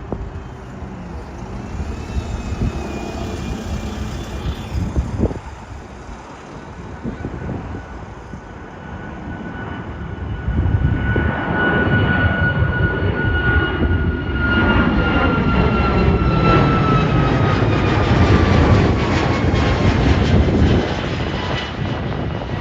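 Jet airliner passing close by at the runway end: engine noise swells sharply about ten seconds in and stays loud, with a high whine that slowly falls in pitch as it goes past.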